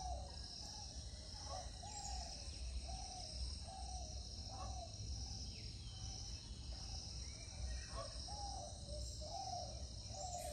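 A steady, pulsing high insect chorus with a bird calling over and over in short, low notes, about two a second, over a low rumble.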